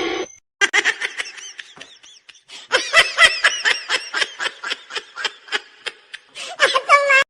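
High-pitched human laughter: a run of quick, short laughs, fainter at first, then a fast string of them, with a last burst near the end.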